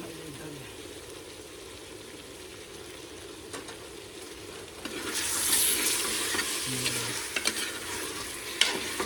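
Pork frying and sizzling in a pan while it is stirred. The sizzle gets much louder about five seconds in, and a few sharp clicks of a utensil come near the end.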